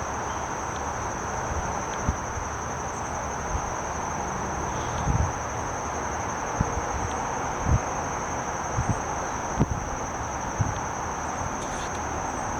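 Steady high-pitched insect chorus over a constant rushing outdoor background, with a few short low bumps, as of wind on the microphone.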